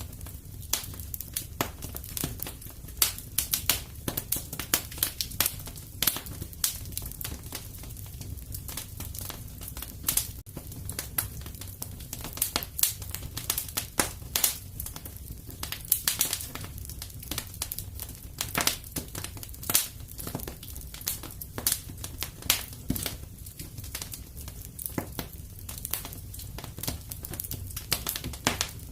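Wood fire in a fireplace crackling, with sharp irregular pops several times a second over a low steady rumble of the flames.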